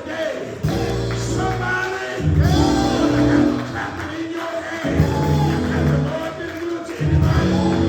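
Gospel music: a choir singing with keyboard and bass accompaniment, held notes changing every second or two.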